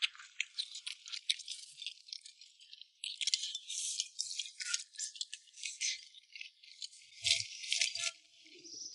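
Close-up eating sounds: irregular crackling, crunching chewing, sparse at first and denser from about three seconds in.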